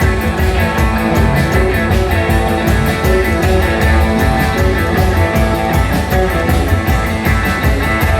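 Live rock-and-roll band playing an instrumental passage: guitar over bass and drums with a steady, driving beat.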